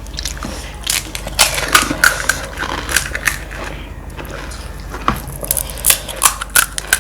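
Close-up eating of crisp street snacks: mouths biting and chewing, with many sharp, irregular crunches that come thicker near the end.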